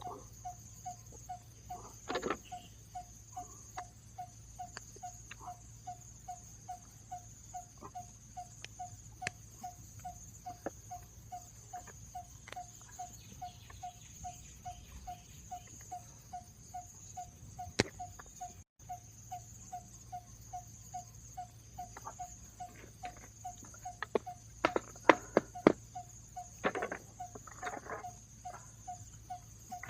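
Forest insect chorus: a steady high buzz with a short note repeating about twice a second. Scattered sharp clicks and knocks cut in, with the loudest cluster a few seconds before the end.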